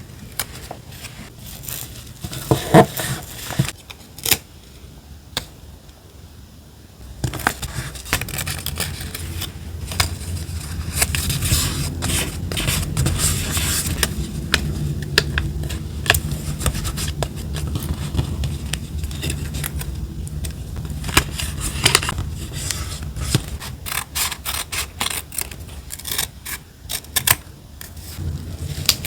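Close-up paper-crafting sounds: scissors cutting and paper scraping and rustling, with many sharp clicks. A steady low rumble runs underneath from about a quarter of the way in.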